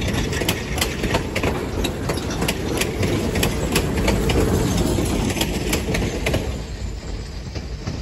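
Passenger train coaches rolling past, steel wheels clicking over rail joints over a low rumble. The clicks stop as the last coach goes by about six seconds in, and the rumble fades.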